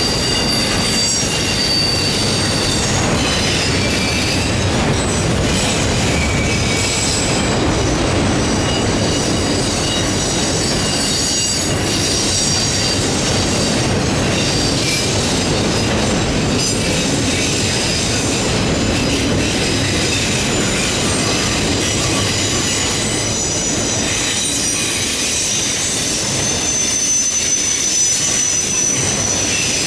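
Autorack freight cars rolling past on a curve: a steady rumble of steel wheels on the rails, with high-pitched wheel squeal that wavers and comes and goes as the wheel flanges grind against the curved rail.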